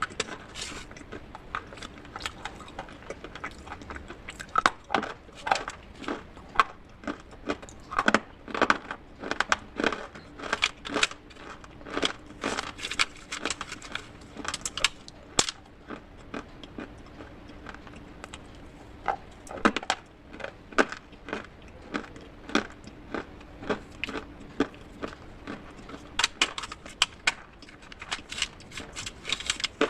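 Brittle clay and slate pieces being crunched and cracked, in sharp irregular crunches that come several a second in flurries, with a sparser lull midway.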